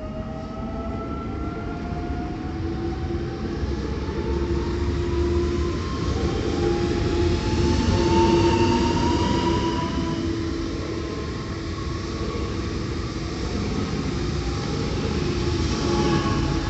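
Train running past with rail rumble and a whine that rises steadily in pitch, loudest about eight seconds in.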